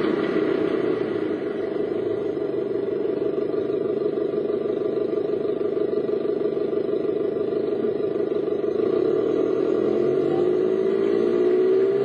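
A car's engine and road noise while driving, steady at first. The engine pitch rises over the last few seconds as it accelerates.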